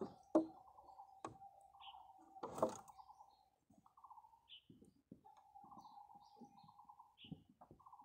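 Birds calling: a low, rapid trill repeated in runs of a second or two, with short high chirps every few seconds. A sharp click about half a second in is the loudest sound, with another click and a brief noisy burst a little later.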